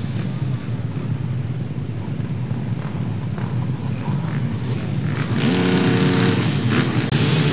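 Motocross motorcycle engines running on the track: a low, steady drone, then about five seconds in one bike comes close and gets louder, its engine holding a steady pitch.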